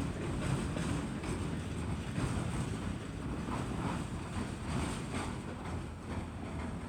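A CN train rolling past on the rails, a steady noisy clatter of wheels with faint irregular clicks, slowly getting quieter. Wind buffets the microphone.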